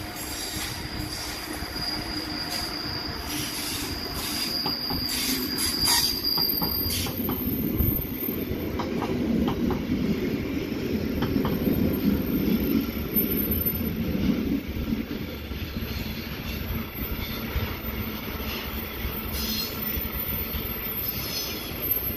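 A freight train of covered hopper wagons rolling past on electrified track. A steady, high wheel squeal stops about seven seconds in. The wheels keep rumbling on the rails, with a few clacks over rail joints, and are loudest around the middle.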